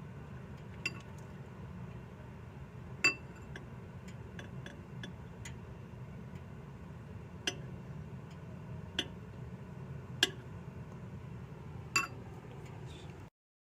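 Butter knife tapping and knocking a glass bowl of microwave-heated water, sharp glassy clinks every second or two over a steady low hum, to set off boiling bubbles in superheated water.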